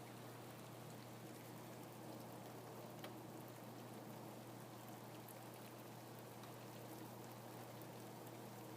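Rain falling steadily, an even hiss with faint scattered drop ticks, over a steady low hum.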